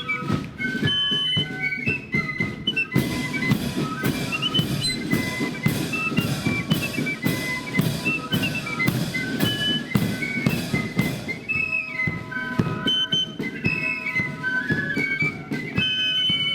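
A marching flute band playing a tune: massed flutes carry the melody over a steady beat of bass and snare drums. The drumming is heaviest from about three seconds in until about eleven seconds.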